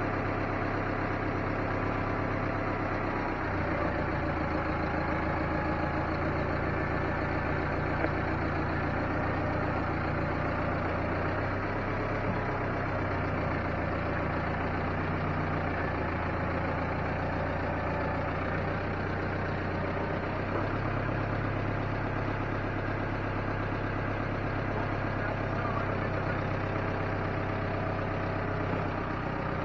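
An engine running steadily at idle. Its low drone deepens and strengthens a few seconds in, eases off midway, and comes back strongly later on.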